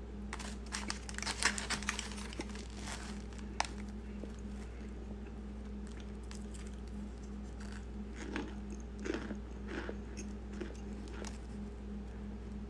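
A person biting and chewing a crunchy, chalky white chunk. There is a cluster of sharp crunches in the first few seconds, then softer chewing with a few more crunches later on.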